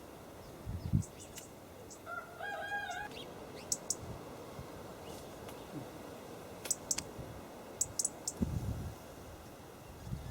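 A bird calling once, a single pitched call of about a second a little over two seconds in, over a faint outdoor background with a few short high chirps.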